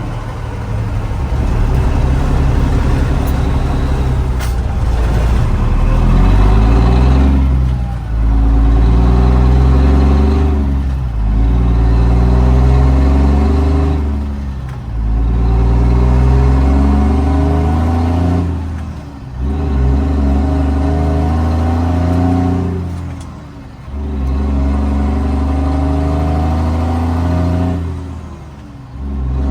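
Straight-piped Cummins L10 inline-six turbo diesel of a Ford L9000 dump truck pulling a loaded trailer, accelerating through the gears. The engine pulls for a few seconds at a time, and its sound drops away briefly at each of about six gear shifts.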